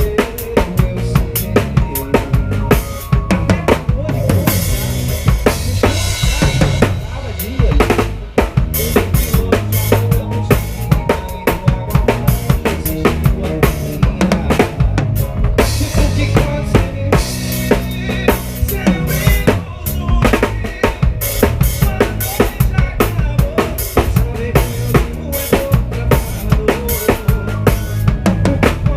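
Live band playing an instrumental passage with the drum kit up front: steady kick and snare with rimshots driving the beat over sustained bass and other instruments.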